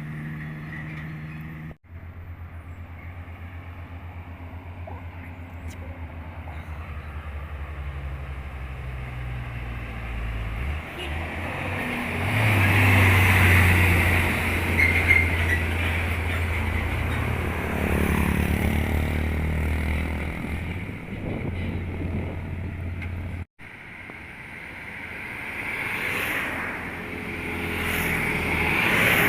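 Heavy truck diesel engines running on the road, with tyre noise. The sound builds to its loudest about halfway through, then eases, and it breaks off abruptly twice.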